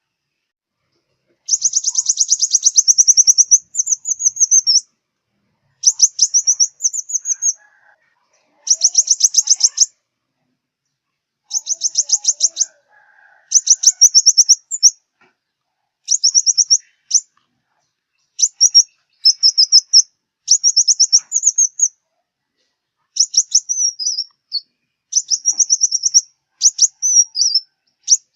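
Sunbird song: short, very high, rapid trills, each lasting about a second, repeated over and over with brief pauses between them.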